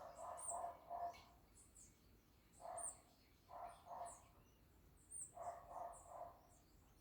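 Birds calling: short, high, thin chirps keep coming, mixed with four bursts of lower, quickly repeated calls, the first right at the start and the others at about two and a half, three and a half and five seconds in.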